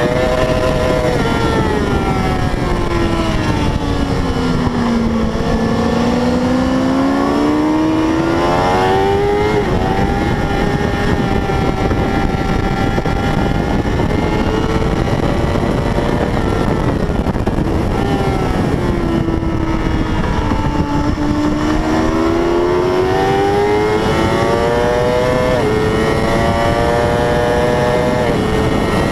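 A 600 cc racing motorcycle engine at racing revs: its pitch falls for a few seconds as it slows, then climbs again with a sudden dip at each upshift, holds steady for a stretch, falls again, and climbs through two more quick upshifts near the end. A steady rush of wind and road noise runs underneath.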